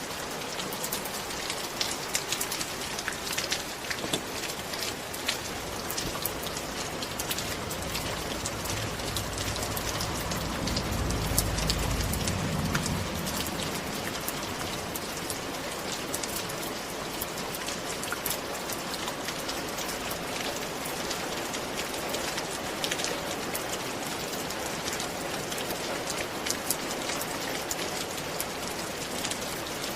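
Steady rain falling on a surface, with the ticks of single drops heard through the hiss. Around the middle, a low rumble swells for a few seconds and then fades.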